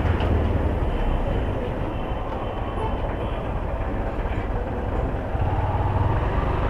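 Honda CB Hornet 160R's single-cylinder engine running steadily under way, with wind and road noise.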